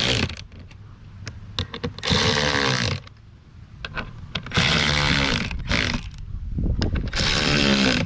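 Power drill running in short bursts of about a second each, three times, its motor pitch sagging and recovering under load as it drives in the bolts that fasten a plastic hard case to its mounting plate.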